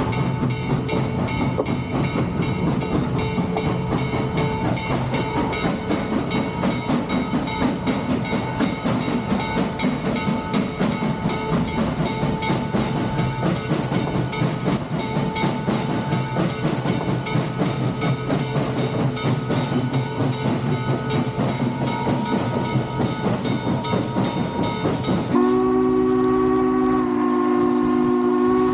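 Steam train running with a fast, steady rhythmic clatter; about 25 seconds in its chime whistle sounds a loud, sustained chord of several notes, dipping briefly and then holding on.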